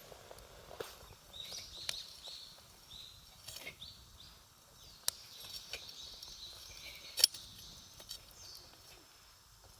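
Wood campfire crackling, with scattered sharp pops, the loudest about seven seconds in.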